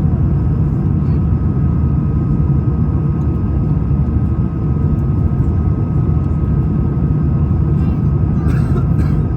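Airbus A220-300 with its Pratt & Whitney geared turbofan engines, a loud, steady low rumble with a thin, even whine over it.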